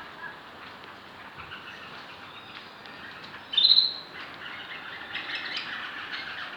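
Domestic birds chirping, with one loud, shrill squawk about three and a half seconds in.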